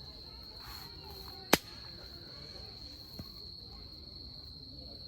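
Wood fire crackling in a small titanium fire stand: one sharp, loud pop about a second and a half in and a fainter snap later, over a steady high insect trill.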